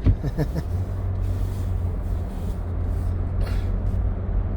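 Car driving on a snowy road, heard from inside the cabin: a steady low engine and tyre rumble.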